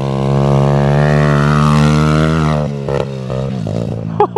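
Minibike engine running hard, its pitch slowly climbing, then dropping away suddenly about two and a half seconds in. A few short, sharp sounds follow near the end.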